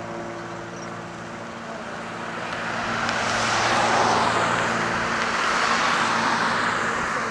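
A vehicle passes by: the rush of its tyres and engine swells for a few seconds and then fades, over the steady hum of another engine idling nearby.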